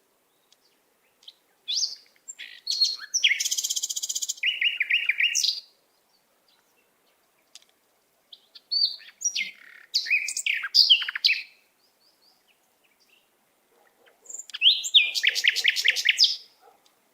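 A songbird singing three bursts of song a few seconds apart. Each burst is a fast, varied run of high chirps and trills, and the first and last hold a rapid buzzy rattle.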